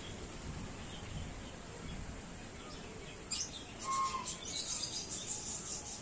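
Small birds chirping in quick, high twitters that begin about three seconds in, with a short whistled note about four seconds in, over a faint steady background hum.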